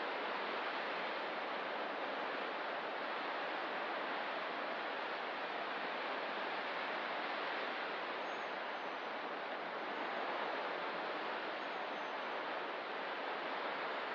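Ocean surf making a steady, even rush with no distinct breaking waves standing out. A few faint high chirps come in the second half.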